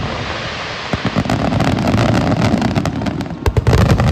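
Fireworks display: continuous crackling and popping over low booms, with a run of louder bangs near the end.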